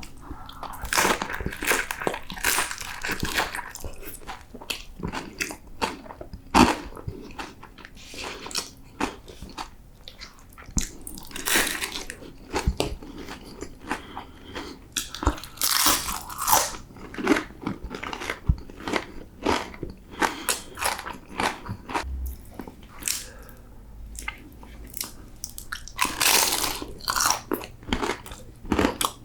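Close-miked biting and chewing of crispy fried taquitos: crisp crunching of the fried tortilla shells, with louder bites a second or so in, twice in the middle and again near the end, and wet chewing between them.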